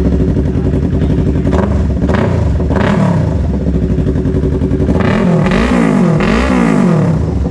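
Yamaha R3 parallel-twin engine with an SC-Project aftermarket exhaust idling, then revved in about five short throttle blips, the last three the strongest and close together.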